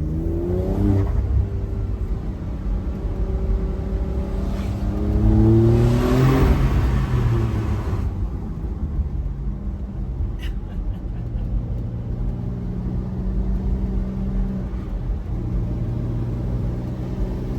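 Porsche 992.2 Carrera Cabriolet's twin-turbocharged flat-six accelerating: the engine note climbs in pitch about a second in and again from about four to six seconds in, drops away as the revs fall, then runs at fairly steady revs.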